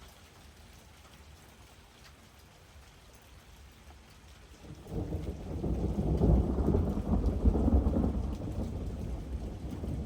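Steady rain falling, then about five seconds in a long rumble of thunder builds, peaks and slowly dies away.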